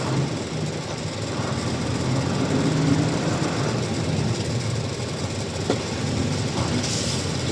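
Truck engine running steadily with a low rumble, with a single sharp click about five and a half seconds in and a brief hiss near the end.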